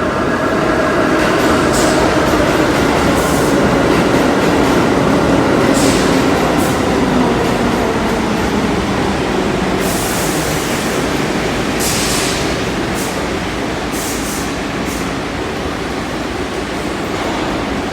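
Subway train running, a loud steady rumble with brief high-pitched bursts of hiss or squeal several times in the second half.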